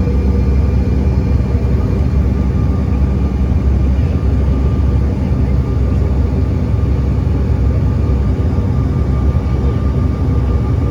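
Steady jet engine drone and airflow heard from inside the cabin of an American Eagle regional airliner, a low rumble with a faint constant whine over it.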